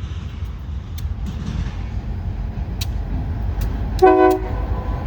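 Diesel freight locomotive running past with a steady low rumble, and one short horn toot about four seconds in.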